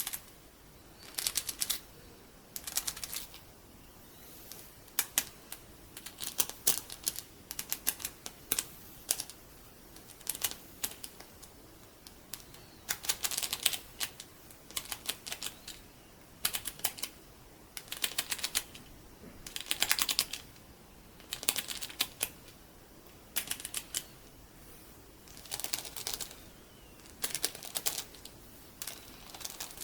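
Loose colourful sticky beads being handled and rubbed, giving short clusters of sharp, crisp clicks that come every second or two.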